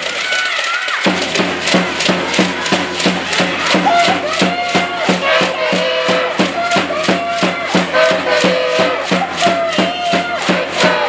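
Cheering music from the stands: a fast, steady percussive beat of about four strikes a second with a melody over it and crowd voices. The beat starts about a second in.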